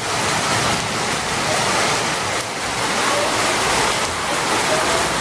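Loud, steady rushing noise with no clear pitch or rhythm, like surging water.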